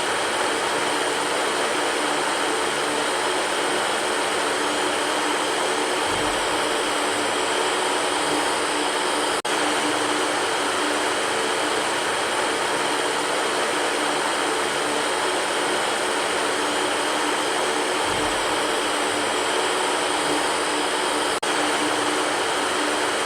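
Electric fan running steadily: an even rush of air with a faint hum underneath, dipping for an instant twice.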